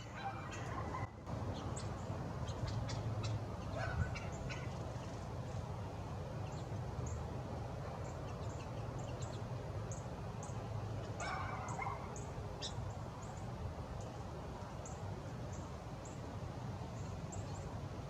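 Small songbirds at a backyard feeder chirping, with short high chirps scattered throughout and a few louder, lower calls, the longest about eleven seconds in, over a steady low rumble.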